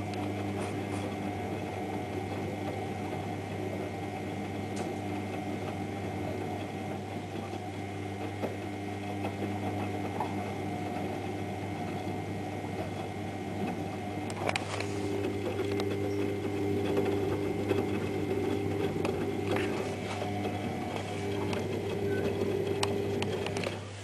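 Privileg Ergonomic 1600 S front-loading washing machine running, its motor and drum giving a steady hum with scattered clicks and knocks; the drum bearing is badly worn. The sound grows a little louder about halfway through.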